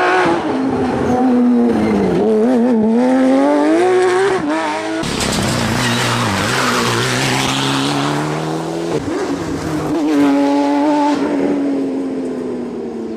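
Rally cars' engines revving hard and dropping back at gear changes as they pass, in clips cut together, with an abrupt cut to another car about five seconds in.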